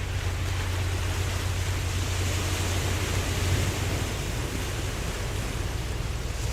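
Ocean surf washing steadily, its hiss swelling and easing, over a constant low rumble.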